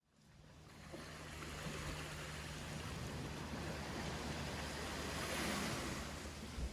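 Ocean waves washing onto a beach, fading in from silence, with a swell of surf about five and a half seconds in. A steady low hum runs beneath.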